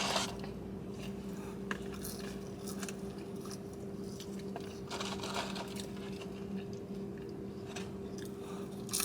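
Close-up eating sounds of McDonald's food: chewing with scattered crunches and mouth clicks, over a steady low hum.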